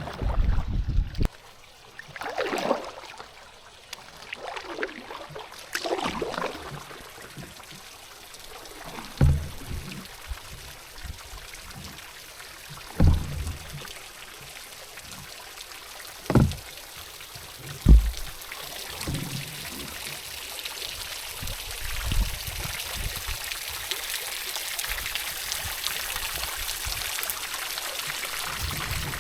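Fast-flowing river water trickling and splashing around a canoe, with a few dull thumps. The rushing grows fuller and steadier near the end.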